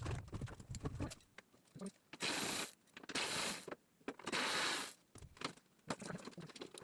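Hand tools being worked on car parts: light clicks and knocks, then three short hissing, scraping strokes about a second apart.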